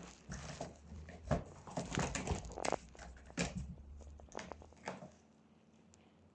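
Irregular crinkling and rustling, a quick run of scrapes and clicks that dies down about five seconds in.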